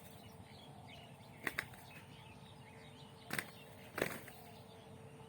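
Birds chirping faintly over a steady low background, broken by short, loud sudden sounds: two quick ones about a second and a half in, then one a little after three seconds and another about a second later.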